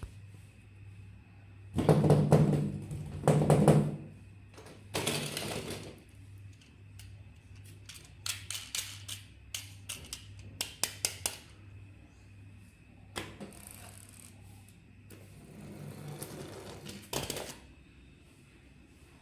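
Toy and packaging being handled: a couple of loud knocks, a rustle, then a quick run of sharp clicks and a few more knocks and rustles, over a faint steady hum.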